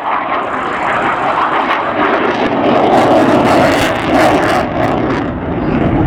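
Aircraft engine noise from an aircraft flying past, a dense drone that grows loudest about three to four seconds in.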